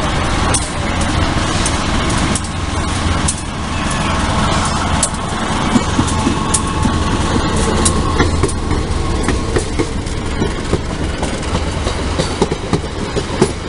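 Long-distance passenger train passing at close range: a steady rumble with many irregular knocks and clicks from the wheels running over the track.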